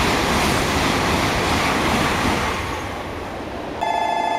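Shinkansen Nozomi bullet train passing at about 270 km/h: a loud rushing noise that eases off after about three seconds. Near the end a steady electronic ringing tone starts.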